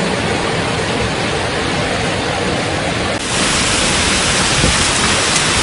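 Storm noise: a loud, dense, steady rush of the kind heavy rain or rushing water makes. It shifts abruptly a little over three seconds in to a slightly louder, brighter rush.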